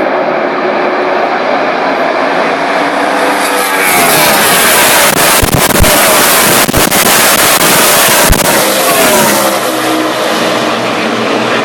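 NASCAR stock cars' V8 engines at racing speed: a pack of cars passes close about four seconds in, getting louder, with the engine pitch dropping as they go by. A few sharp crackles come during the pass, and the sound eases back to the more distant engine noise of the field near the end.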